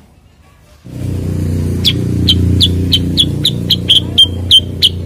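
Cucak kurincang calling: a run of short, sharp high notes, two to three a second, starting about two seconds in and coming closer together near the end. Beneath it, from about a second in, a steady low hum.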